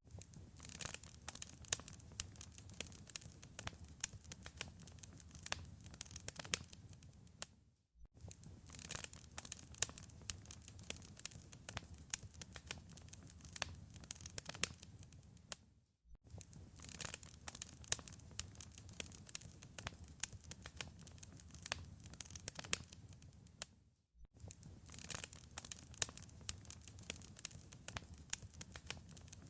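Wood fire crackling in a fireplace: a steady run of sharp pops and snaps over a low rumble of flames. The sound cuts out briefly about every eight seconds, as a short recording looped end to end.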